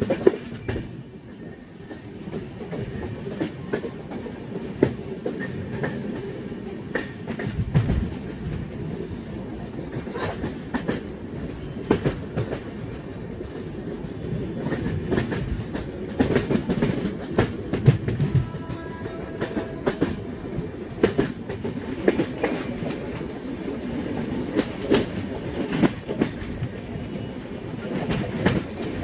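Passenger train running at speed, heard from an open coach doorway: a steady rumble with wheels clicking and clattering irregularly over the rail joints.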